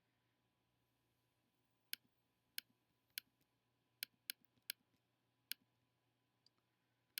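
Computer mouse clicking: about eight short, sharp clicks at uneven intervals, starting about two seconds in, over a faint steady hum.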